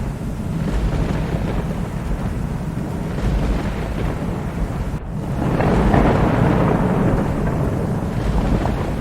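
Thunderstorm: steady rain with a continuous low rumble of thunder, and a louder peal of thunder building about halfway through and easing off over the next couple of seconds.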